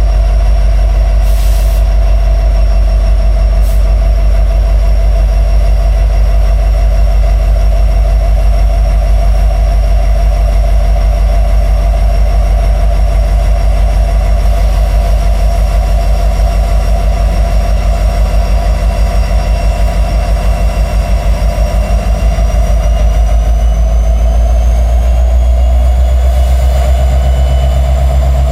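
Freight train rolling past close by, a loud steady low rumble of the cars on the rails. Thin high wheel squeal runs over it and rises in pitch near the end.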